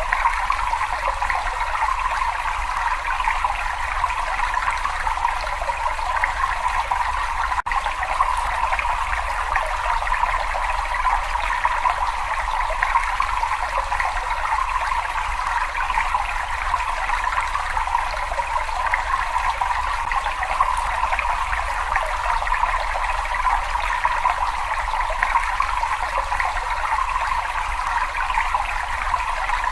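Water in a cave running and trickling steadily, a continuous even rush with a fine splashing texture in the middle pitches. A split-second dropout about eight seconds in.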